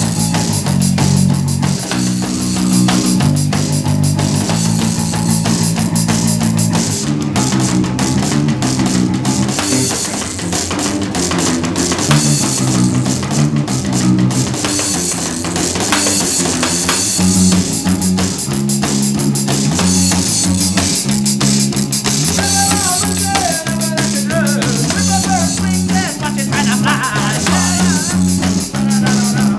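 Live rock band playing an instrumental passage on electric guitar, bass and drum kit, with a lead guitar line coming in about two-thirds of the way through.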